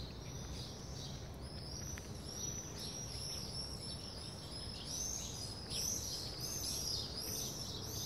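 Songbirds singing: quick runs of short, high chirping notes repeating throughout, over a steady low background rumble.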